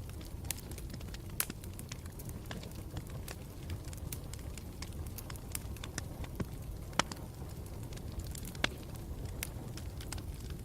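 Campfire burning steadily with a low rumble and frequent irregular crackles, a few sharper pops among them.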